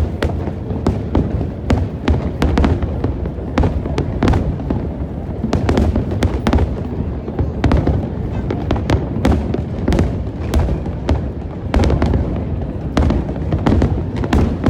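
Aerial fireworks display going off in a dense, continuous barrage: many overlapping bangs and crackles several times a second over a steady low rumble of booms.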